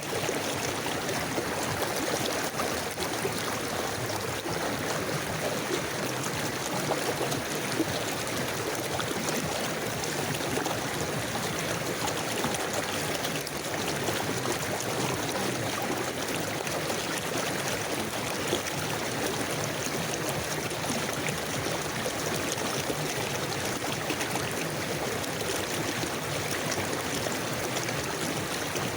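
Forest river flowing steadily, a continuous rush and burble of moving water.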